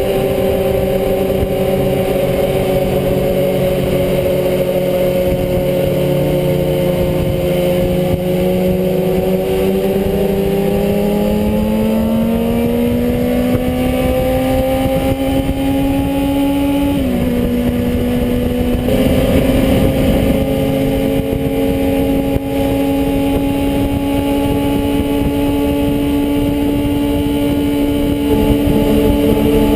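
Motorcycle engine running at a steady speed; about a third of the way in its pitch climbs slowly for several seconds, drops suddenly, then holds steady again.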